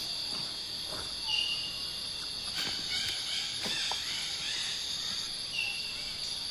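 Tropical rainforest insect chorus: a steady high-pitched drone, with a short high call about a second in and again near the end, and a few faint animal calls in between.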